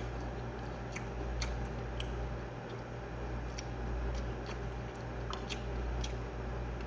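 A person chewing a mouthful of food close to the microphone, mouth closed, with scattered small wet clicks and smacks, over a steady low hum.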